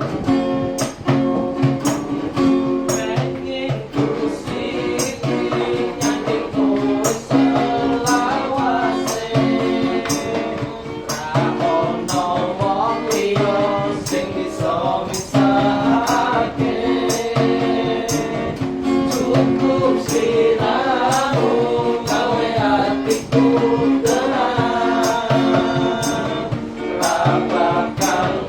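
Amateur singing of a pop song, with voices over strummed string chords and a steady percussive beat of about two strokes a second.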